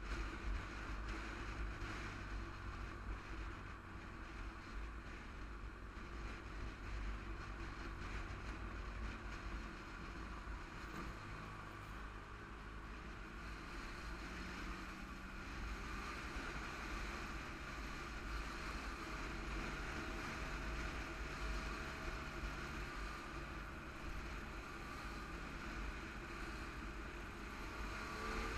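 Sport motorcycle's engine running steadily while riding slowly through traffic, with low wind rumble on the camera microphone.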